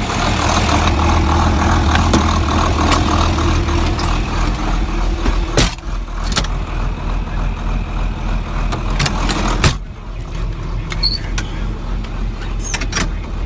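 John Deere farm tractor's diesel engine running steadily, with sharp metallic clanks about halfway through and again near the end. About ten seconds in, the higher part of the engine noise drops away and it runs quieter.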